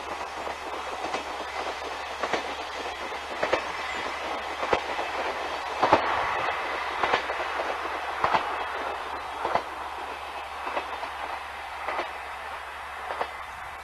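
Diesel railcar train of the JNR KiHa 35 series running away along the line. Its wheels clack over rail joints at regular intervals of about a second and a bit, over a steady rumble that fades slightly toward the end.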